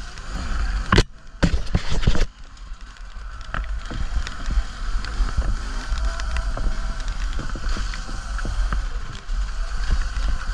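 Wind rushing over the microphone of a camera on a moving off-road bike, with a low rumble throughout. A cluster of sharp knocks and rattles comes from riding over rough, muddy trail about a second in, and a faint motor whine comes around the middle.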